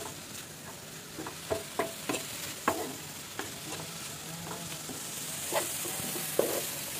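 Prawns and cuttlefish pieces sizzling in frying pans, with a wooden spatula scraping and knocking against the pans at irregular moments as they are stirred.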